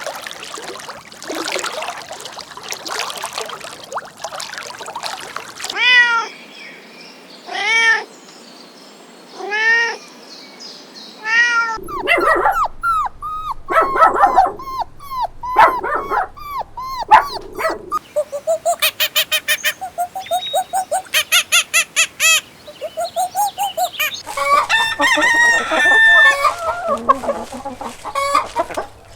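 Farm animal calls spliced together one after another: a run of five arched calls about two seconds apart, then chickens clucking in quick repeated notes, with rooster crowing among them.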